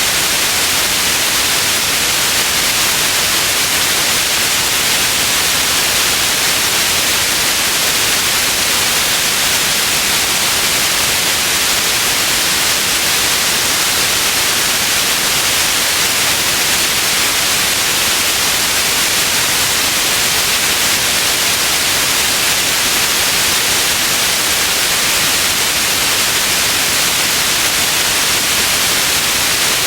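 Steady white noise: an even hiss with most of its energy in the highs, unchanging throughout.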